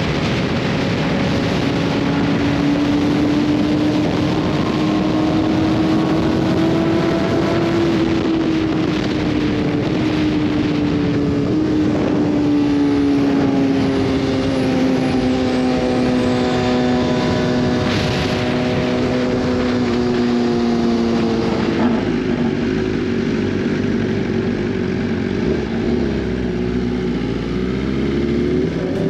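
Sport motorcycle engine running at a steady highway cruise, its pitch rising a little and then easing slowly down as the throttle is held, over a constant rush of wind and road noise.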